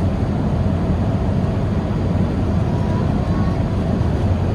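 Airbus A380 cabin noise in flight: the steady rumble of the engines and rushing air, heard from inside the passenger cabin.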